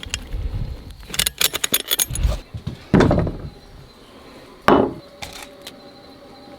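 A quick run of light metallic clinks and rattles, followed by a few louder knocks and rustles, like something being handled.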